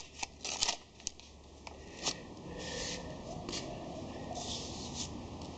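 Masking paper rustling and crinkling as it is handled: a few short crinkles in the first two seconds, then a softer, steadier rustle with brief louder patches.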